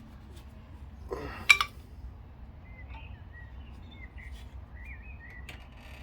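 A short scrape and then one sharp metallic clink, about a second and a half in, as a metal tool is set between the brake pad and disc of an Audi Q7 front brake caliper to lever the piston back.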